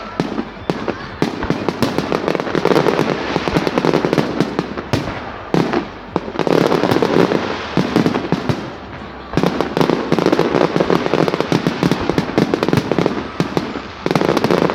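Fireworks display going off: a dense, continuous barrage of rapid bangs and crackles, with brief lulls about five and a half and nine seconds in.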